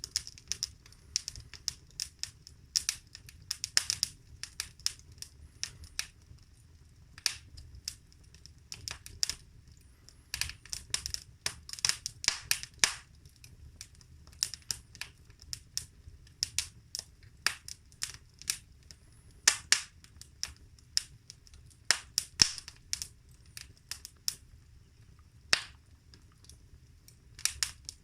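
Wood fire burning in a fireplace, crackling and popping irregularly with sharp snaps, some in quick clusters, over a low steady rumble of the flames.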